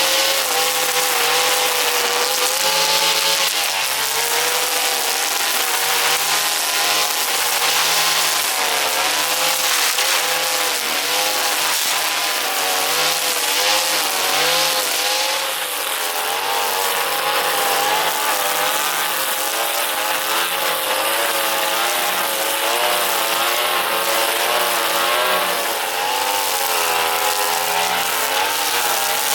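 Petrol brush cutter running at high speed, its engine pitch wavering up and down over a steady hiss.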